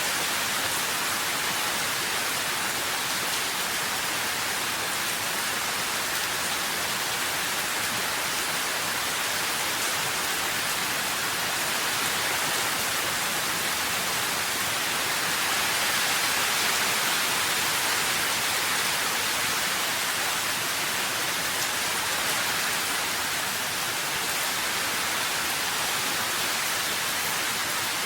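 Steady rain falling, an even hiss of many drops with no distinct impacts or thunder.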